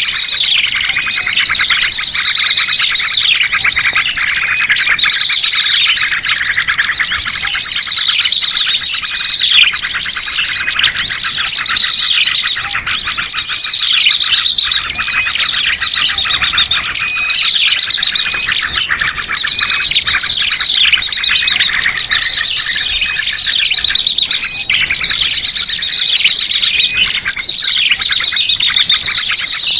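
Bird-lure recording of a dense chorus of many small birds, loud and continuous, chirping and trilling over one another with no pauses.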